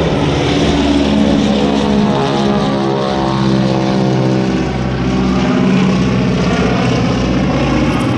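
A propeller airplane flying past, its engine drone loud and steady.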